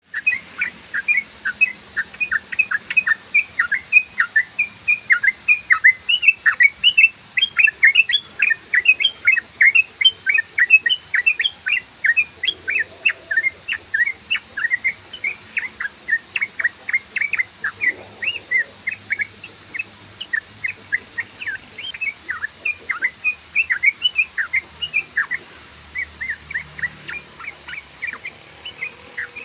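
Yellow-vented bulbul (trucukan) singing a long, rapid 'ropel' song: a continuous run of short, sharp chirping notes, about four or five a second.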